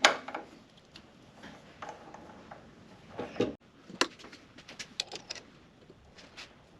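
Hand tools handled while a tap is backed out of a freshly tapped hole in an aluminium plate: a knock at the start, then scattered light clicks and knocks.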